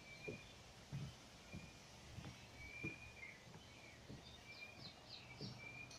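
Faint birdsong: short whistled notes recurring every second or so, with a run of quick, higher chirps in the second half. Soft low thumps sound now and then underneath.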